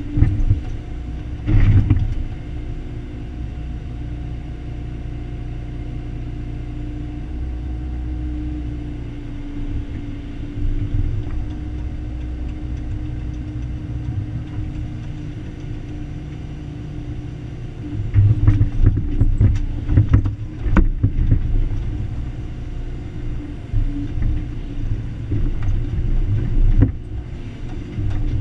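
Excavator's diesel engine running steadily under load while digging, with a steady held tone over the low rumble. Sharp knocks and clanks come through once about two seconds in, in a loud cluster a little past the midpoint, and once more near the end.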